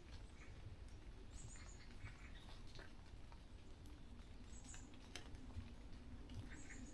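Faint forest ambience at dawn: short, high bird calls repeating every second or two over scattered small clicks and a low background rumble.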